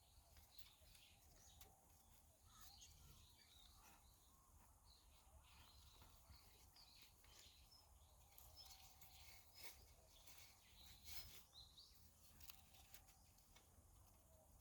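Near silence: faint outdoor ambience with scattered soft ticks and brief high chirps.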